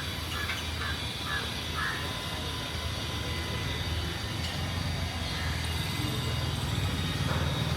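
Street traffic rumbling steadily, with a run of about five short calls in the first two seconds and a vehicle coming closer near the end.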